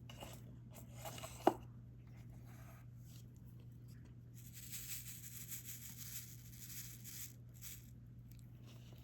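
Diamond-painting work sounds: a sharp click about a second and a half in, then a few seconds of soft rustling and scratching, over a steady low electrical hum.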